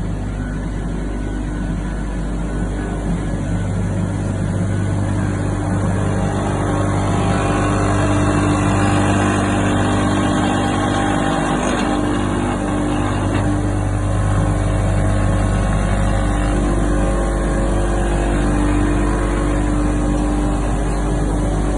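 Sesame tahini grinding mill running, its electric motors spinning the grinding stones with a steady mechanical hum that grows a little louder over the first several seconds.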